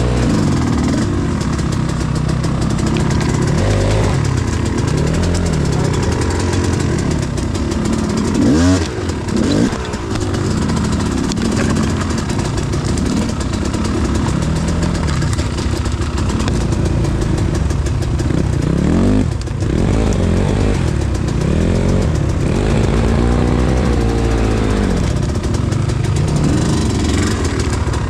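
Enduro motorcycle engine revving up and falling back in repeated surges every couple of seconds, as the bike's rear wheel spins and digs into soft ground.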